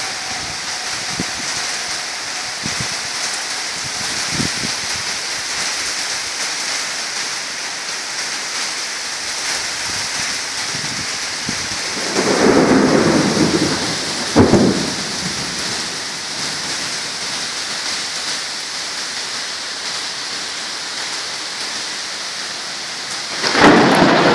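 Heavy rain pouring steadily during a thunderstorm. Thunder rumbles about halfway through, a sharp crack follows a couple of seconds later, and a loud, close thunderclap breaks near the end.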